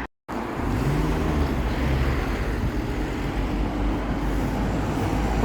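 Bus engine running with road traffic noise: a steady low rumble, cutting in after a brief silence at the start.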